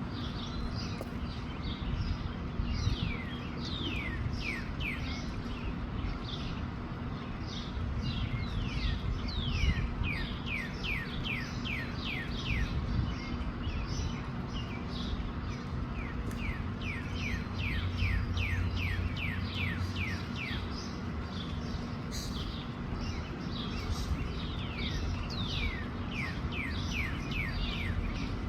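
Small birds chirping continuously: many short chirps, each sliding downward in pitch, coming in quick runs. A steady low wind rumble on the microphone sits underneath.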